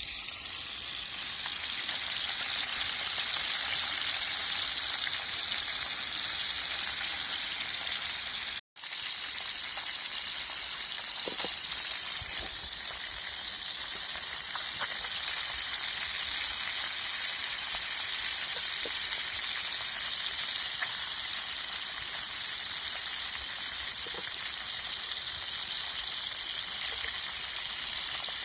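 Silver carp frying in a pan: a steady hiss of sizzling oil with scattered small pops, breaking off for a moment about nine seconds in.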